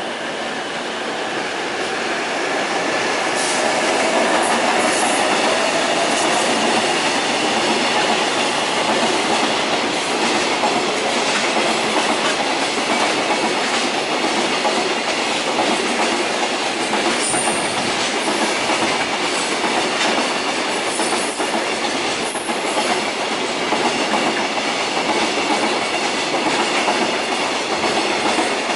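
JR Freight container train pulling out and rolling past, its wagon wheels clicking over the rail joints. The sound builds over the first few seconds and then holds steady.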